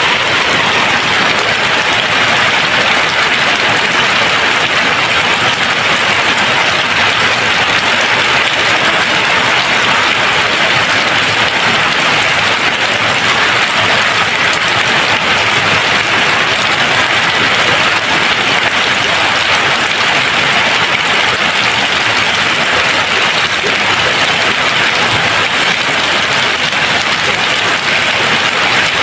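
Steady rain, an even hiss without thunder or any other sound.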